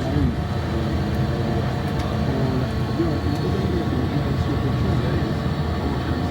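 Steady low rumble of a car being driven, with engine and road noise.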